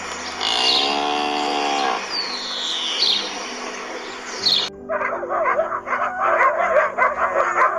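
Animal calls over background music: a noisy stretch with high chirps and one long arching call, then, about five seconds in, a run of many short quick calls.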